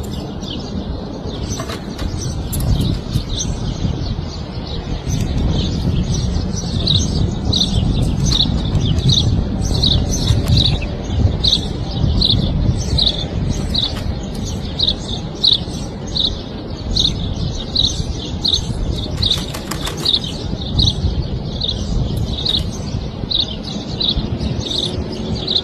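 A small bird giving short high chirps over and over, about two a second, over a constant low rumbling noise.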